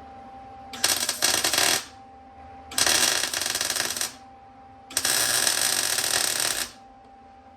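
Three short runs of arc welding, each one to two seconds with a pause between, tacking steel chevrons onto the springer fork legs.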